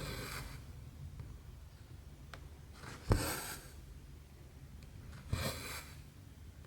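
Cross-stitch needle punching through the canvas with a sharp tick, then the thread pulled through with a short rasping swish. This happens three times, about every two and a half seconds, over a low steady hum.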